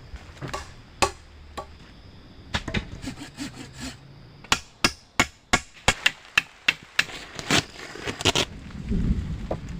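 Dry wood cracking and snapping in a quick, irregular run of sharp cracks, with a low rumbling thump near the end.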